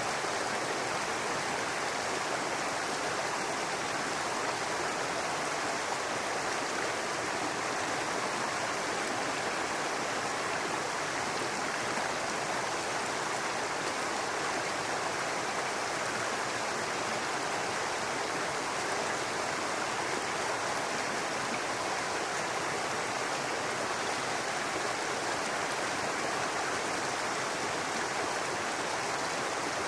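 Brook water running and babbling over rocks: a steady rush with no change.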